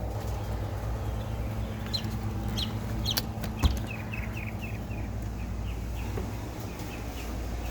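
Birds calling: a few short falling chirps, then a quick run of short chirps, over a steady low hum. There is a sharp knock about three and a half seconds in.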